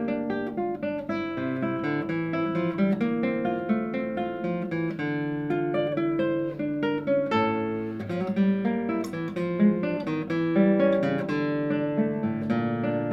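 Solo classical guitar playing a flowing line of plucked notes over held bass notes.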